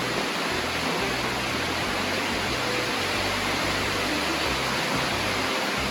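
Heavy rain drumming steadily on the barn roof, an even, unbroken hiss.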